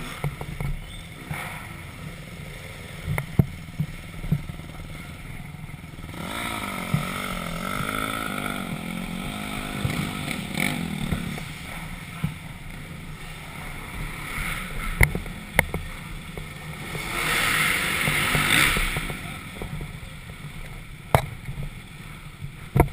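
Dirt bike engine running, its pitch rising and falling for several seconds in the middle, over steady wind noise on the microphone with scattered sharp knocks.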